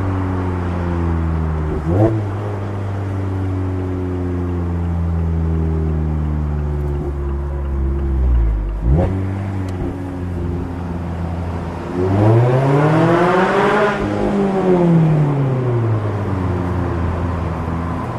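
Mazda MX-5 Miata's four-cylinder engine through a RoadsterSport race exhaust, heard from the driver's seat while driving. It cruises with a slowly falling note, with short quick rev blips about two and nine seconds in. Then it accelerates hard, the note climbing loudly for about two seconds before easing smoothly back down as the throttle is lifted.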